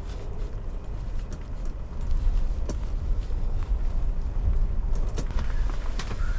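Strong wind gusting against an ice-fishing shelter in a blizzard, heard as an uneven low rumble, with small clicks and rustles of gear being handled.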